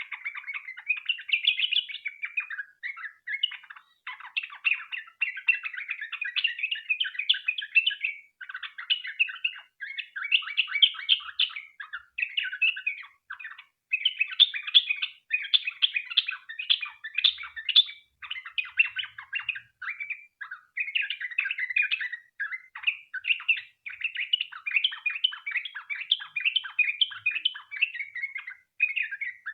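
Yellow-vented bulbul (trucukan) singing a long, rapid run of chattering, bubbling notes, the 'ropel panjang' song kept up with only short pauses.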